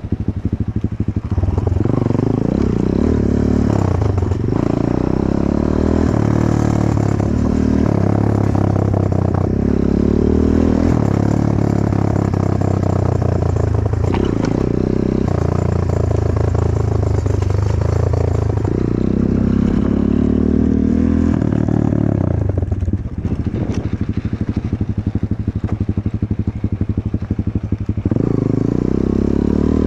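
Enduro motorcycle engine running under load, its pitch rising and falling repeatedly as the throttle is opened and closed, with clattering from the bike.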